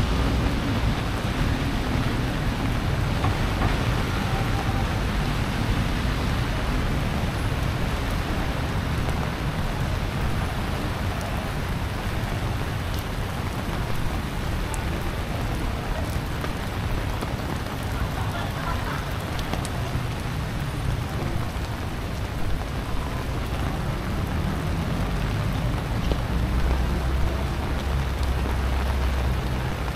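Steady heavy typhoon rain falling and splashing on wet paving, a constant hiss. A low rumble swells near the end.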